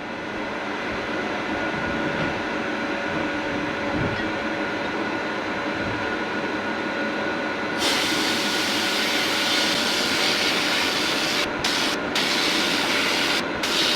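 Abrasive blast cabinet with its dust extractor running steadily; about 8 s in, the blast gun opens with a loud high hiss of air and grit, cutting out briefly three times near the end as the trigger is let go, while aluminium engine casings are blasted.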